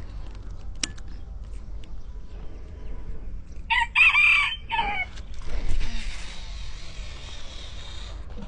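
A rooster crowing once, about four seconds in, in a few broken segments. A steady hiss follows for about three seconds.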